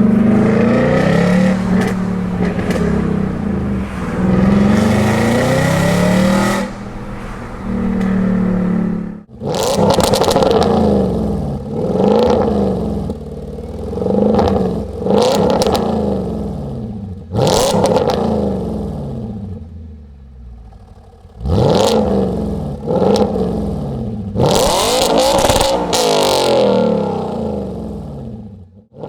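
Audi S5's 4.2-litre V8 running through a Capristo aftermarket exhaust. For the first nine seconds or so it holds revs that waver up and down. Then comes a string of sharp throttle blips, each rising and falling again.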